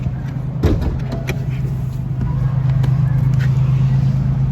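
Steady low drone of a 2021 Toyota Supra 2.0 running on the road, with a few light clicks or knocks in the first second or so.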